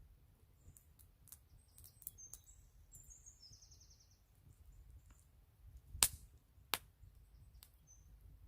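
Faint bird chirps and short trills over a low outdoor rumble, with scattered small clicks and two sharp snaps or knocks a little past the middle.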